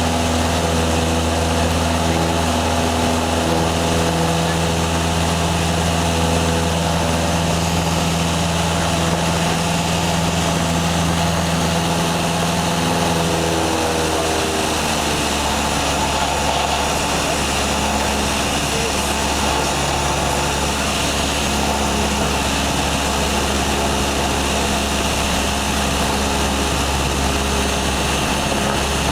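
Small propeller airplane's engine and propeller running steadily, heard from inside the cabin, with a steady rushing noise over it; the pitch of its hum shifts about halfway through.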